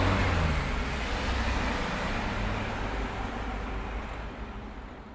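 Busy city street traffic: cars and heavier vehicles passing with a steady tyre and engine hum. Near the start a low engine note drops in pitch, and the whole sound fades out toward the end.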